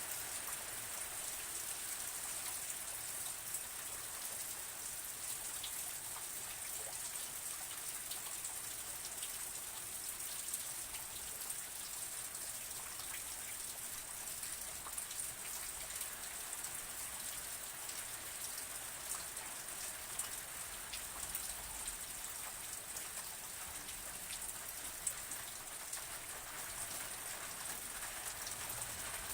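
Steady rain falling on a surface, a continuous hiss with many small drop ticks and a few louder individual drops.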